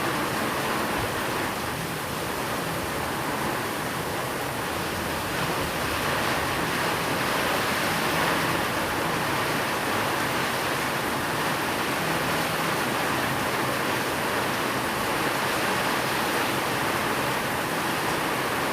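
Steady, even rain noise: a continuous hiss of falling rain with no single drops or thunder standing out.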